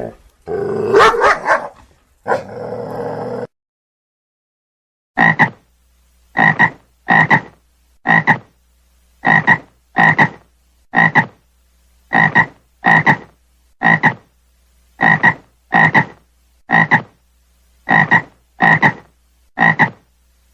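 Cartoon-style frog croak sound effect: about sixteen short croaks, each the same, repeated roughly once a second. It begins about five seconds in, after a brief different sound effect and a short silence.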